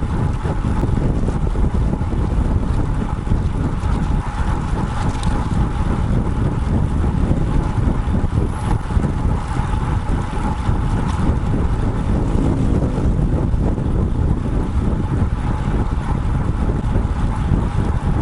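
Steady wind rush buffeting the microphone of a bike-mounted action camera on a moving road bike, heaviest in the low end.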